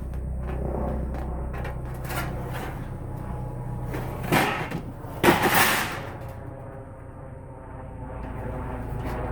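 Straight tin snips cutting thin sheet metal in short snips, with clicks from the blades and two louder, harsher bursts about four and five seconds in, over a steady low hum.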